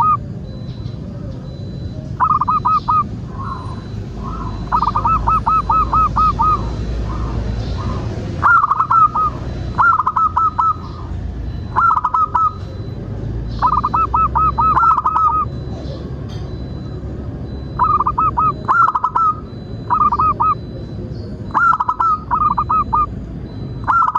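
Zebra dove (perkutut) calling: short bursts of rapid, rolling cooing notes, repeated every second or two.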